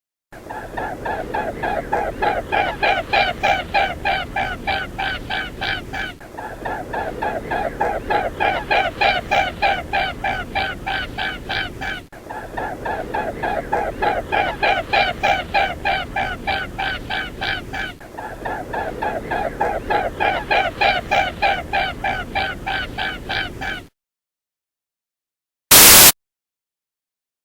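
A bird calling in a fast run of nasal, honking notes, several a second. The same stretch of calls is heard four times over, then stops. A short, loud burst of sound follows near the end.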